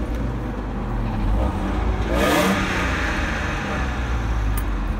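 Mercedes W124 E280's 2.8-litre straight-six running, with a brief rise in revs about two seconds in. The idle hunts and the engine misfires, with a knock from the front of the engine that the owner cannot place.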